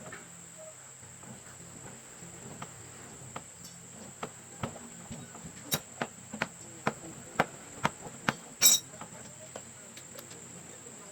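A run of sharp taps or knocks, irregular and coming about one or two a second from around four seconds in, the loudest near the end, over a steady high-pitched insect trill.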